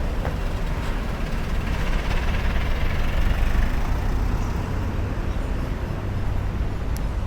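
City road traffic: a steady rumble of passing vehicles that swells a little a few seconds in.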